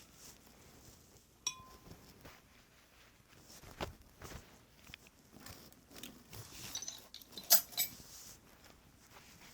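Sporadic light clinks and taps of small hard objects being handled, with a brief ringing clink about a second and a half in and the sharpest clink about 7.5 s in.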